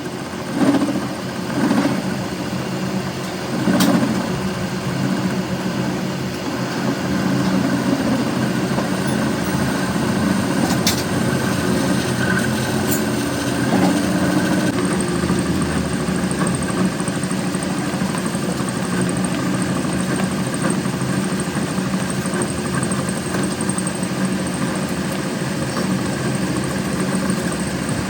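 A machine motor running steadily, with a few knocks in the first four seconds and a faint high whine from about halfway on.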